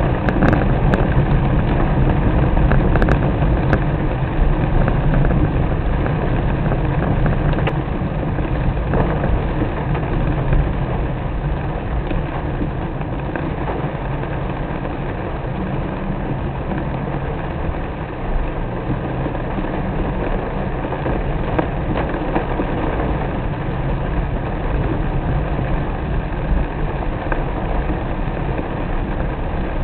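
Car driving in the rain: a steady mix of low engine and road noise with the hiss of rain and wet tyres.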